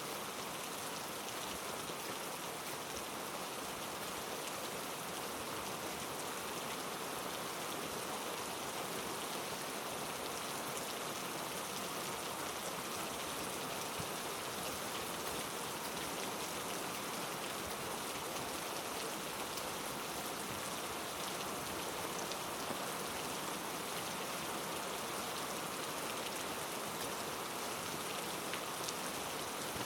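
Heavy rain falling steadily on the rainforest, a dense, even hiss of countless drops.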